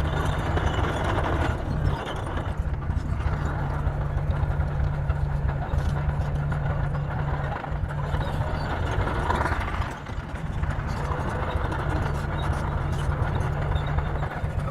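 Bulldozer's diesel engine running steadily at working speed, with a fast clatter over its low drone.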